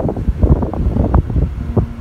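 Strong gusty wind buffeting the microphone: a loud, uneven low rumble that surges and drops several times a second.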